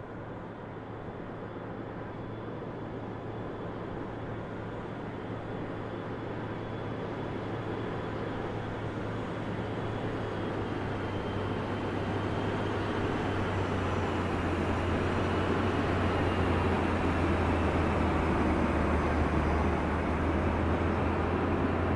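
Aircraft engine noise building steadily louder as the aircraft approaches: a rushing sound with a faint high whine that dips slightly in pitch in the second half.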